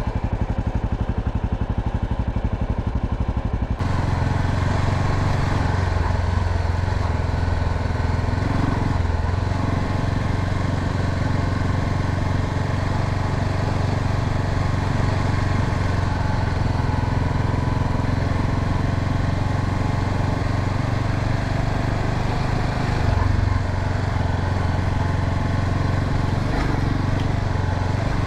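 Honda Sahara 300 single-cylinder motorcycle engine running steadily. About four seconds in, a steady hiss of wind and road noise joins it and continues under the engine.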